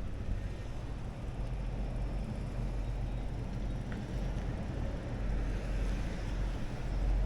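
Steady wind rumble on the microphone while riding a bicycle, with a low, even rushing noise.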